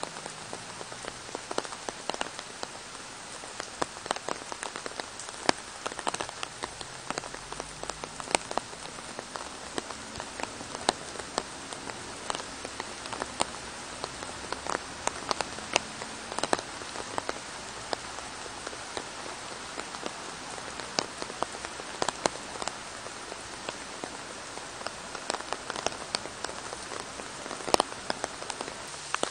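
Steady rain falling on trees, grass and a wet path: an even hiss with frequent sharp strikes of single drops close by.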